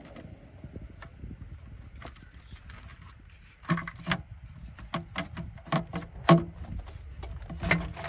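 Hands working parts in a car's engine bay: low rustling and handling noise, then from about halfway a quick run of sharp clicks and knocks of parts and tools being moved and fitted.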